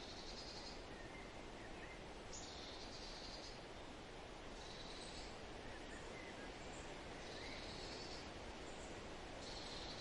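Outdoor ambience: a steady noise bed with a high, finely pulsed trill that repeats about every two seconds, each lasting about a second, and a few faint chirps between them.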